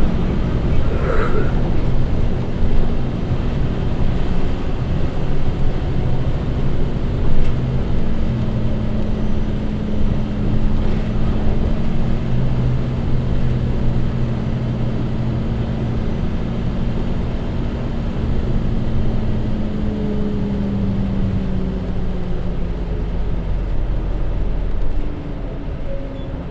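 Hino Rainbow HR city bus with a J07E diesel engine and DD5M gearbox under way, heard from inside the cabin: a steady engine drone over road noise. The engine note eases off and the level drops near the end.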